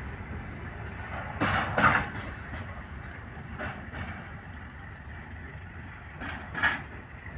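Freight train wagons rolling past with a steady rumble, the wheels clacking over rail joints in pairs of knocks (two axles of a bogie), the pairs coming every two to three seconds.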